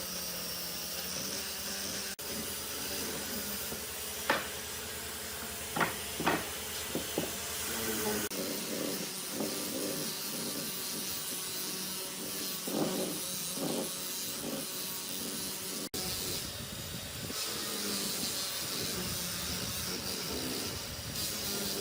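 Steady hiss of a running woodworking machine, with a few sharp knocks of wood a few seconds in.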